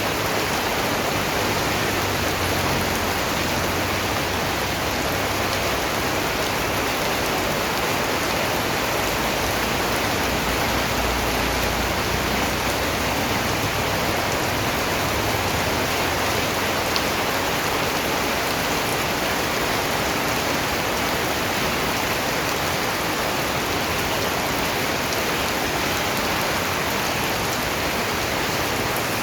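Steady rain falling, a dense even patter of raindrops that holds at one level without let-up.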